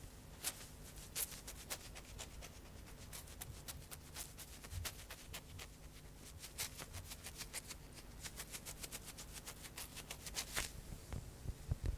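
ASMR tapping close to a microphone: light, crisp taps, several a second and quickening in the middle. They stop shortly before the end, when a few duller low knocks begin.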